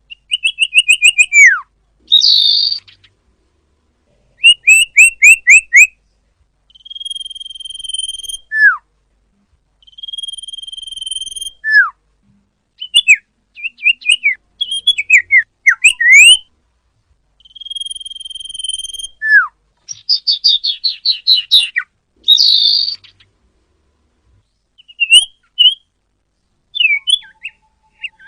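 Common iora (cipoh, also called sirtu) singing, clear and loud: long level whistles, quick runs of short falling notes, single notes sliding steeply down, and harsh buzzy chatters, phrase after phrase with short silent gaps.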